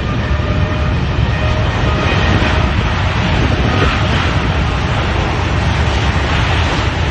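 Boeing 777X's GE9X turbofan engines at takeoff thrust: a loud, steady rumbling noise. Faint whining tones fade out over the first two seconds.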